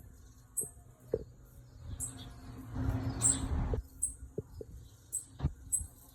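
Small birds giving short, very high-pitched chirps about once a second, with a few knocks and a burst of rustling about three seconds in.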